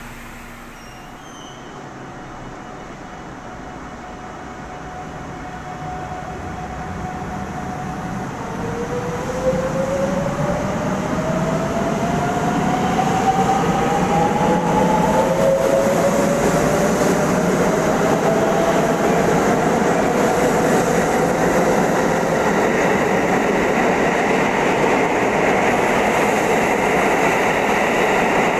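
Electric train accelerating: its motor whine rises in pitch from about eight seconds in. The running noise of wheels on rail grows louder, then stays steady and loud.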